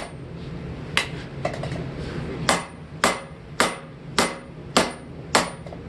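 Blacksmith's hand hammer striking hot steel on an anvil while straightening a forged hammer head. One blow about a second in, then after a short pause a steady run of six blows about every 0.6 s, over a steady low hum.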